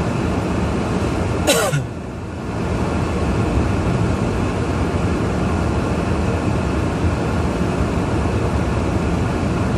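Steady road and engine noise inside a moving car's cabin. About a second and a half in, a brief sweep falls quickly from very high to low, and the noise dips for a moment just after.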